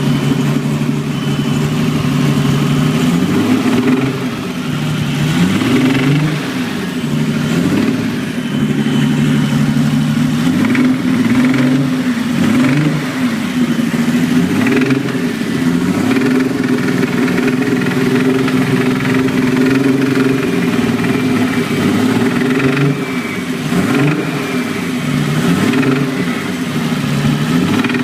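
Engine running, its pitch rising and falling over and over as the throttle is blipped every second or two. The uploader presents it as an engine knock.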